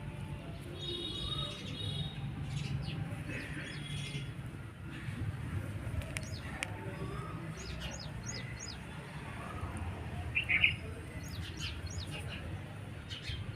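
Birds chirping in short, repeated high calls over a steady low background rumble, with a louder brief call about ten seconds in.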